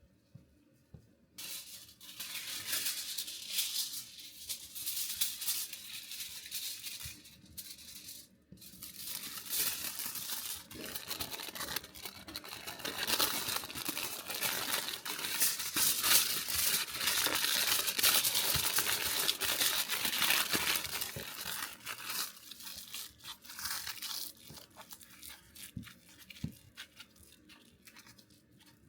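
Aluminium foil being torn and crumpled, crinkling in a dense run of rustles, as sweet potatoes are wrapped for roasting. It starts suddenly, pauses briefly, is loudest in the middle and thins out near the end.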